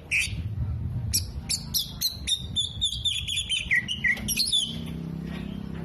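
Oriental magpie-robin singing a fast, varied song of sharp chirps and trills, with a held high whistle about two to three seconds in. Its song mixes in mimicked calls of other birds.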